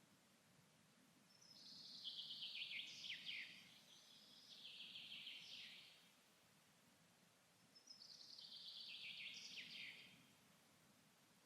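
A songbird singing in woodland: two faint songs, each a rapid trill of notes falling in pitch, the first longer and in two parts, the second starting about eight seconds in.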